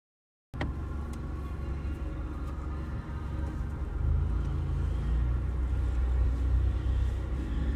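Stage 2-tuned Seat Leon FR's engine running as the car rolls slowly, a steady low rumble that starts abruptly about half a second in and grows louder a few seconds later.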